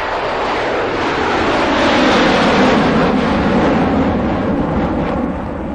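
Airplane passing low as it comes in to land: steady engine noise that swells to its loudest about two to three seconds in, then eases a little.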